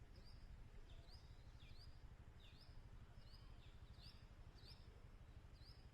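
Faint bird chirps repeated about twice a second, short quick notes that mostly sweep upward, over a low background rumble.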